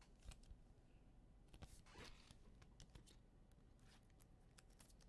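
Near silence with a few faint, brief rustles and clicks of trading cards being handled.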